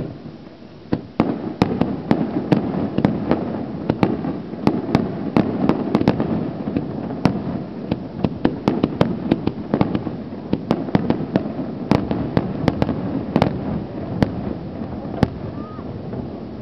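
Fireworks display going off in a rapid string of sharp bangs and crackles over a continuous rumble, starting about a second in after a brief lull and thinning out near the end.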